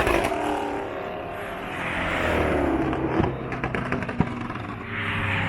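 Car engines running and passing. One engine's pitch falls about two seconds in, and a deep exhaust note rises near the end.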